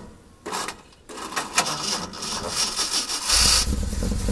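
1968 Ford F-250's 390 cubic-inch big-block V8 being cranked by the starter on a cold start, with an uneven grinding noise, then catching and running with a deep low rumble about three seconds in.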